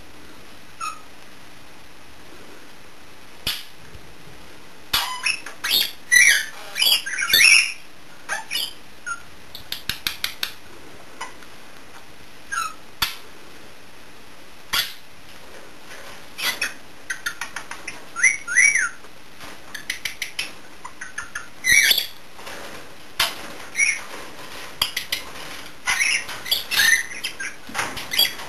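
Pet budgie and cockatiels calling in scattered bursts: short chirps, whistled squawks and quick runs of sharp clicks.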